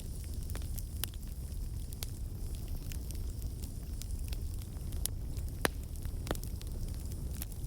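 Wood fire burning in a fireplace: a steady low rumble of flames with irregular sharp crackles and pops, a few louder pops past the middle.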